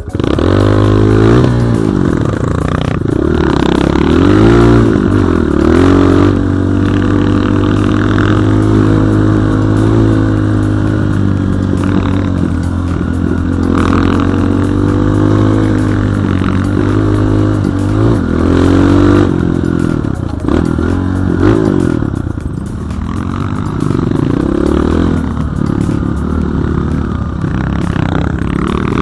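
Enduro motorcycle engine, a BSE J1, running under load: revs rise and fall repeatedly with the throttle, holding fairly steady for a stretch in the middle.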